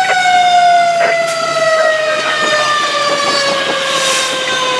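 A fire engine's mechanical siren winding down, one steady tone whose pitch falls slowly and evenly, over the truck's low engine hum with a few short knocks.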